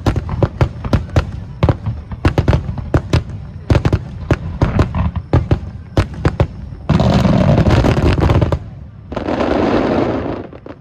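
Fireworks going off in rapid succession, a dense run of sharp bangs and pops, then about seven seconds in two stretches of thick, continuous noise, each lasting over a second.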